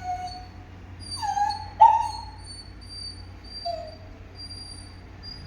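Pet parrot making short pitched calls, several falling in pitch, the loudest about two seconds in. A thin high whistling tone runs through the second half.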